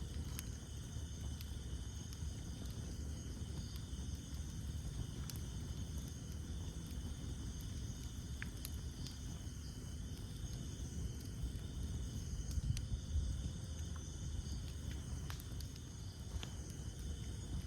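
Campfire burning, with a steady low rumble of flames and scattered sharp crackles and pops from the burning wood. Steady high-pitched insect chirring runs underneath.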